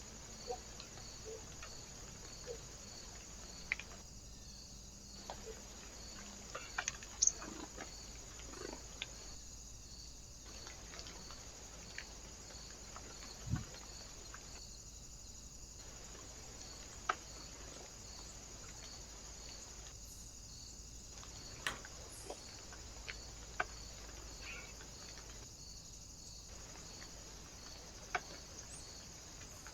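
A faint steady high-pitched hiss with a soft regular pulsing, and scattered small clicks and taps.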